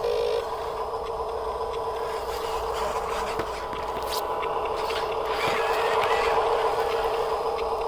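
A motor running with a steady, unchanging hum, with faint scraping and a few light ticks over it.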